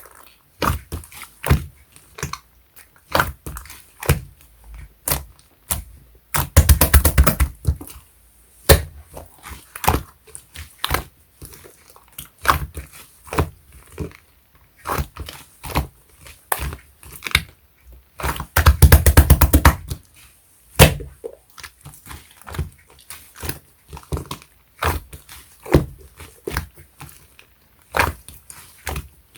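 Pink clear slime mixed with white clay slime being squeezed and pressed by hand, making sharp sticky clicks and pops. Two longer runs of rapid crackling popping come about six seconds in and again around nineteen seconds.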